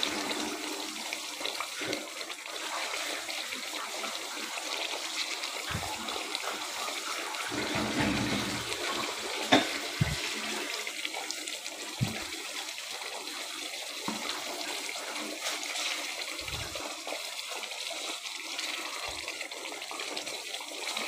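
Chicken curry sizzling and bubbling in a metal pot on a gas stove as its liquid cooks down, a steady hiss with a few light knocks of the spoon against the pot.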